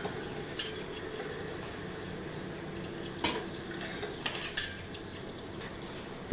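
Scattered light metallic clinks and clatters of tools and the crucible being handled at a charcoal furnace, the sharpest one about four and a half seconds in, over a steady faint hum.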